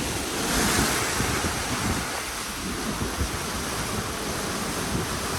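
Strong gusting storm wind, near typhoon strength, rushing steadily and buffeting the microphone, with a gust swelling about a second in.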